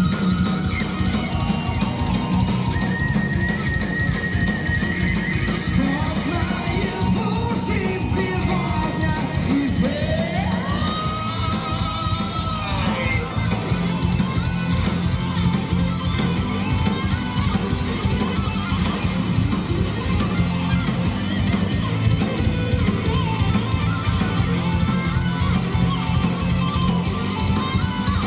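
Heavy metal band playing live: electric guitar over driving drums and bass. About ten seconds in, a lead line slides up to a long held note and falls back.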